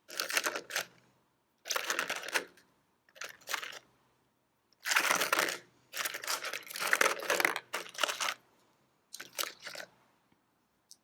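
Collected beach rocks being handled and sorted through, a crunching, crinkling rustle in six short bouts with pauses between.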